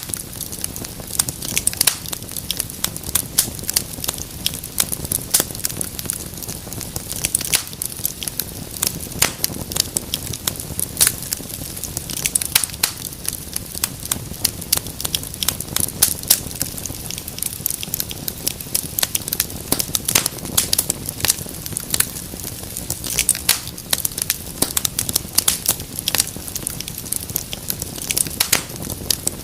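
Wood fire crackling steadily, with many irregular sharp pops and snaps over a low rumble of the flames.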